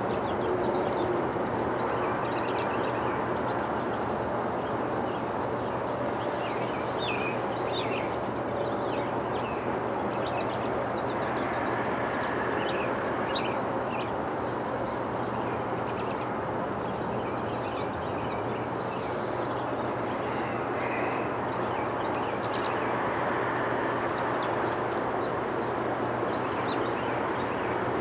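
Steady distant rumble of an approaching freight train's GE ES44AH diesel locomotives, with birds chirping intermittently over it.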